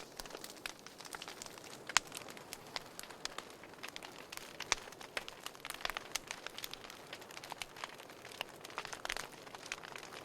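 Wood fire in a fireplace crackling: irregular sharp snaps and pops over a soft hiss, with a loud snap about two seconds in.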